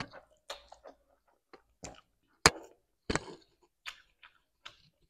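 Close-miked slurping of a mouthful of spicy instant noodles, then chewing: scattered wet mouth clicks and smacks, the sharpest about two and a half seconds in and again just after three seconds.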